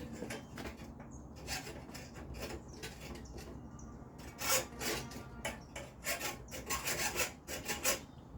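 Hand saw cutting through wood in back-and-forth strokes. The strokes are faint at first, then louder and steady at about three a second from just past the halfway point.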